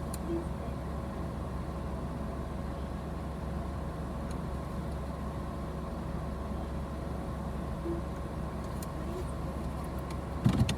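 Steady low rumble of an idling car, with a faint steady hum over it and a short knock near the end.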